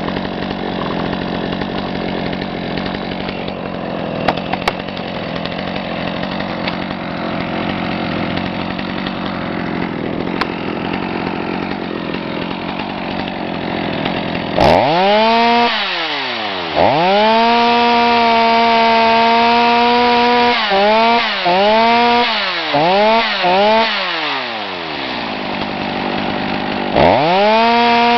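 Stihl MS250 two-stroke chainsaw running with a steady, noisy drone for about the first half. It is then revved hard to a high scream and held. Near the end of the middle it is blipped up and down several times, falls back toward idle, and is revved up again near the end.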